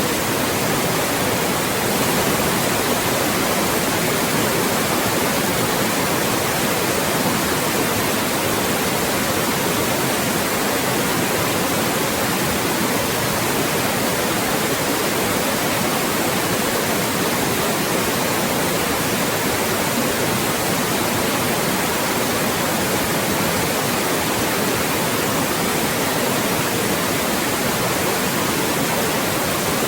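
Loud, steady white noise: an even hiss across all pitches with no changes, used as a speech blocker.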